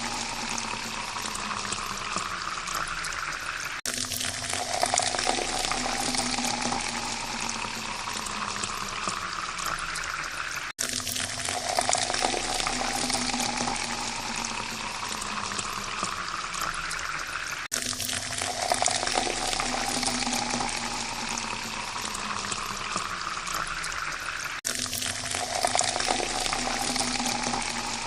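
Water pouring into a glass, with a tone that rises in pitch as the glass fills. The pour repeats about every seven seconds, each time breaking off for a moment before starting again.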